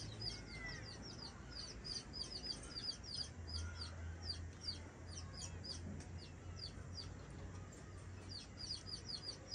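Birds chirping, faint: a long run of short high chirps, several a second, with a faint low hum underneath for a few seconds in the middle.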